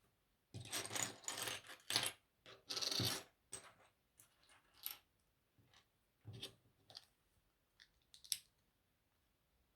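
Small plastic LEGO pieces clicking and clattering as they are handled and pressed together, a run of irregular clicks with a few longer rattling stretches in the first few seconds.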